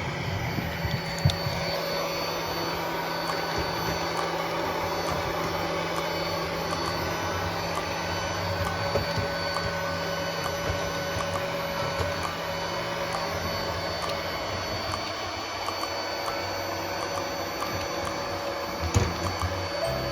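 Robot vacuum cleaner running with a steady whirring hum, with scattered small clicks and knocks and a sharper knock about a second in and again near the end.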